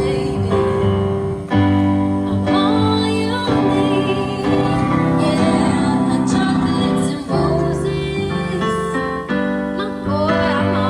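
Yamaha electronic keyboard playing held piano-style chords that change about once a second, with a voice singing a melody over them.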